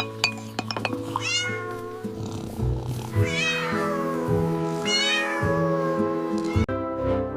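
A cat meowing three times, high wavering calls, over soft background music with sustained chords.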